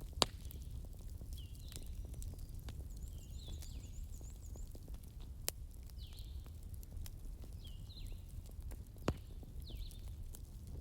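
Wood fire crackling, with scattered small clicks and three sharper pops: one about a quarter second in, one about halfway, and one near the end. Under the fire is a steady low rumble. A short, high chirping call from an animal repeats every second or so.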